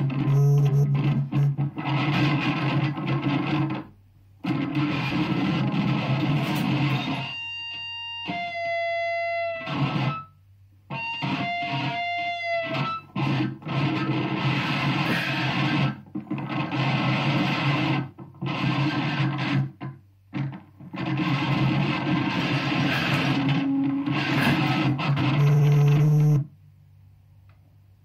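Contact-miked briefcase full of loose objects, amplified through distortion effects: harsh, dense noise in blocks broken by short gaps, with a stretch of pitched, sliding tones about a third of the way in. It stops suddenly near the end.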